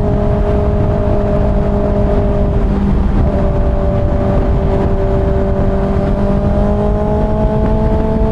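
Kawasaki ZX-6R's inline-four engine running steadily at freeway speed under heavy wind rush. About three seconds in the engine note briefly breaks, then climbs slowly.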